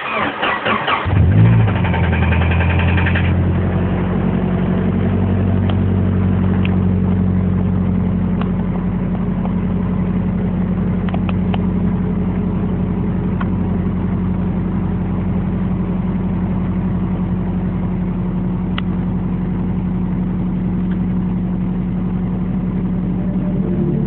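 Nissan KA24DE 2.4-litre inline-four being cranked by the starter, catching after about a second, revving briefly, then settling into a steady idle.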